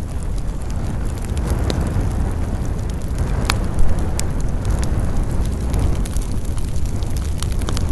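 Wood campfire burning: a steady low rumble with scattered crackles and snaps, and one louder pop about three and a half seconds in.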